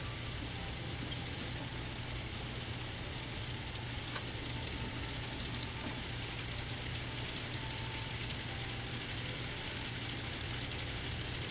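N scale model locomotives running along the layout's track: a steady whirring hum of the small motors and wheels on the rails, with one light click about four seconds in.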